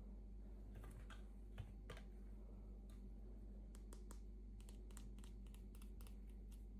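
Faint, irregular small clicks and taps of hands handling small plastic toy packaging during an unboxing, with a steady low hum underneath.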